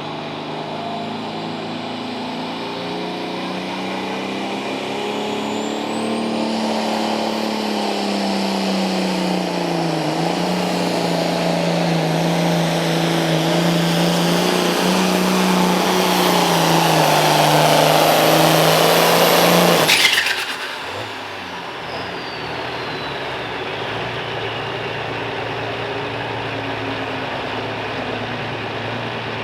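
Turbocharged diesel pulling tractor under full load pulling the sled. Its engine note wavers as it builds and the turbo whistle rises about six seconds in. About twenty seconds in the power drops off suddenly with a short crack, and the turbo whistles down while the engine settles to idle, the end of the pull.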